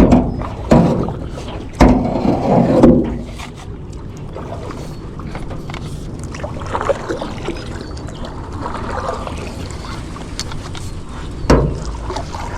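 John boat getting under way on the water: several loud knocks and thumps in the first three seconds and one more near the end, with steady low noise in between.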